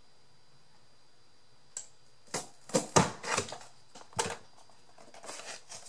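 A handheld Big Bite heavy-duty hole punch clamping and punching through craft paper or card: a run of sharp clicks and snaps, the loudest about three seconds in, then softer handling rustles.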